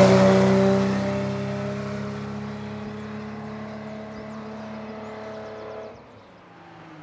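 Hill-climb competition car's engine pulling hard at steady high revs just after passing close by, its note fading as it drives away up the hill. The sound drops away sharply about six seconds in.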